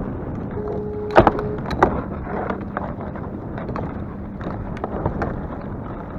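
Wind buffeting the microphone on a kayak in choppy water, with scattered clicks and knocks. The two loudest knocks come a little over a second in and just before two seconds in.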